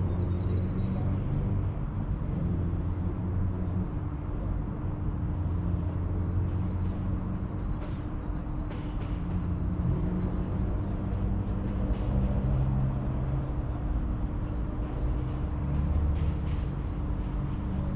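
Steady low rumble of distant city traffic with a constant hum under it, and a few faint high chirps in the middle.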